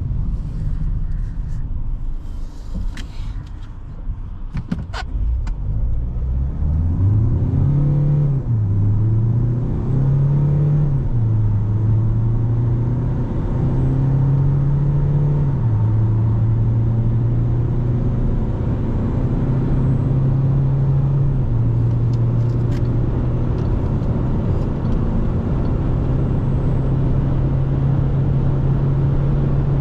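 Peugeot Expert van's diesel engine idling with a few clicks, then accelerating hard from a standstill. The automatic gearbox shifts up several times, and the engine note drops at each shift before pulling again.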